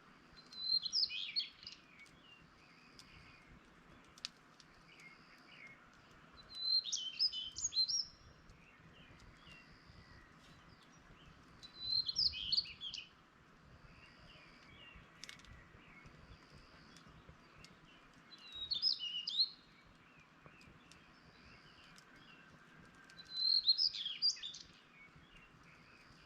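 A songbird singing a short, intricate phrase five times, about every five to six seconds. Between the phrases there are faint repeated high notes and an occasional soft crackle or pop from a burning wood fire.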